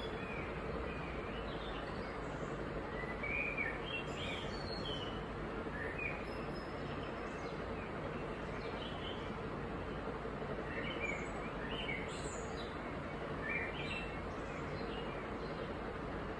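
Small birds chirping intermittently, short chirps every second or two, over a steady background hiss.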